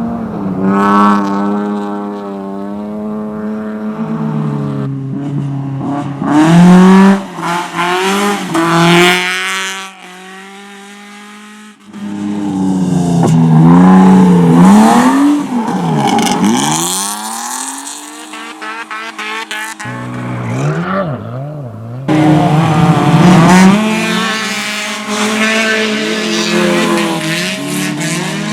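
Race car engines revving hard as cars race past, the pitch climbing through the gears and dropping as each car goes by. The sound cuts abruptly between passes several times.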